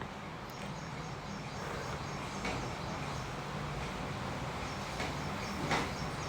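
Quiet outdoor background with faint, repeated high bird chirps over a low steady hum, and a soft knock near the end.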